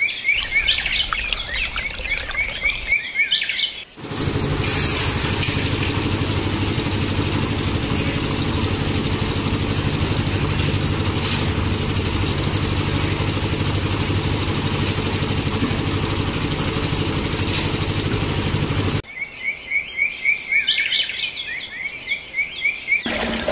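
Repeated high bird chirps, then a loud steady machine running sound with a low even hum that starts abruptly about four seconds in and cuts off about fifteen seconds later, after which the chirping returns.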